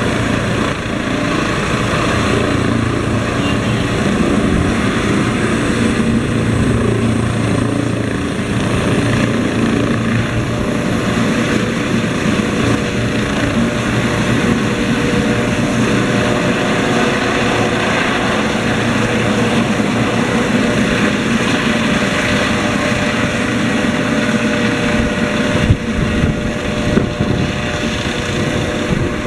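Helicopter running, a loud, steady mix of rotor noise and engine whine, with a few brief thumps near the end.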